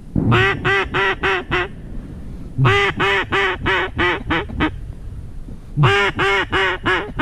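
Mallard duck call blown in three runs of quacks, about six, eight and five notes. Each run opens on a longer note and then quickens, like a hen mallard's greeting call, sounded close by to draw in passing ducks.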